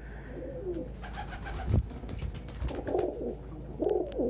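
Domestic pigeons cooing: a run of wavering coos in the second half. There is a single thump a little before two seconds in.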